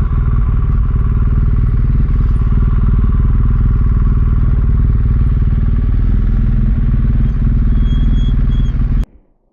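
BMW R1200GS Adventure's boxer twin engine running at a steady pace under way, heard from on the bike. The sound cuts off suddenly near the end.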